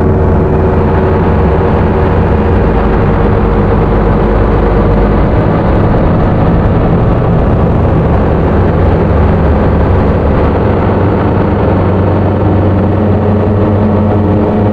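Handmade Dirty Drone analogue noise synth playing a steady, gritty low drone from its three cross-modulating oscillators, a thick hum with a noisy wash over it. About five seconds in, the deepest tone drops away and the low end shifts.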